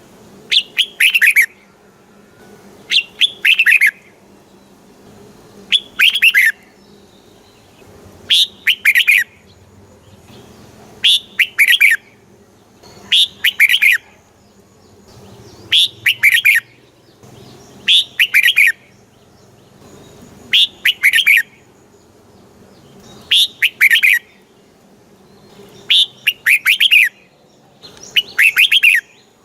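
Red-whiskered bulbul singing: short, loud song phrases of a few quick falling notes, repeated about every two and a half seconds.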